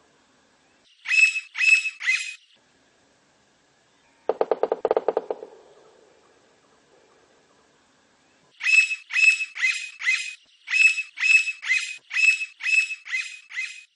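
Blond-crested woodpecker calling: a run of three loud, high calls about a second in, and a longer series of about a dozen in quick groups from past halfway to the end. Around four seconds in comes a fast rattle of lower knocks lasting about a second.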